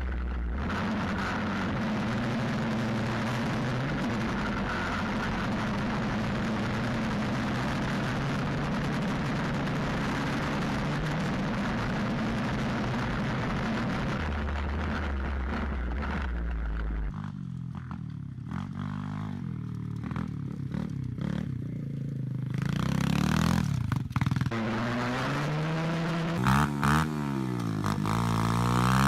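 Stomp WPB 125 pit bike's single-cylinder four-stroke engine on the move, heard from a camera on the bike. It holds a steady speed under a rushing noise for a little over half the time, drops back and goes quieter, then revs up and down repeatedly in the last several seconds.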